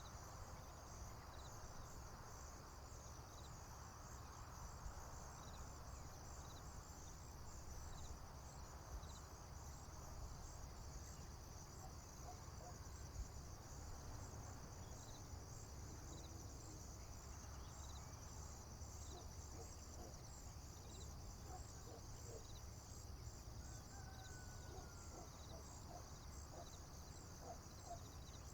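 Crickets chirping in a steady, fast, high-pitched trill over a faint low rumble. In the second half, faint short bird chirps and one gliding bird whistle join in.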